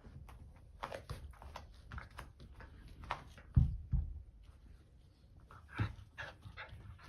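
Shiba Inu puppy moving about at play: a run of short clicks and taps, with heavier thumps about halfway through and again near the end.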